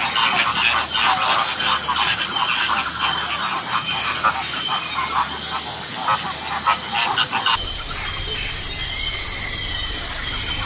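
A flock of flamingos calling, a dense rapid chatter of overlapping calls that stops about seven and a half seconds in, leaving a steady low background hum.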